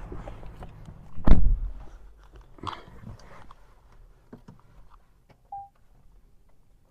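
Toyota Camry car door shutting with a single loud thump about a second in, heard from inside the cabin, followed by light clicks and rustling and a short beep near the end.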